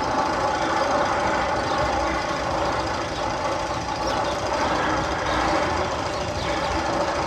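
Steady mechanical rattling and rumbling, one of the sound effects played over the loudspeakers in the Magnum XL 200 roller coaster's tunnel.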